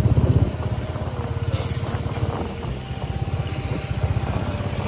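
Royal Enfield Meteor 350's single-cylinder engine running at riding speed with an even pulsing beat. A short rush of wind noise comes about a second and a half in.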